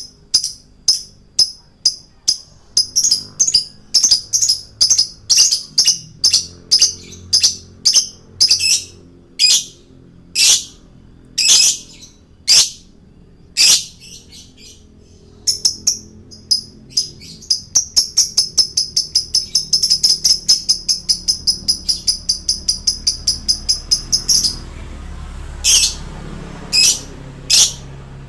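Male lovebird chirping: a long series of short, sharp high notes, about three a second at first, slowing to about one a second with a short pause midway, then a fast chattering run of notes for several seconds before a few last chirps.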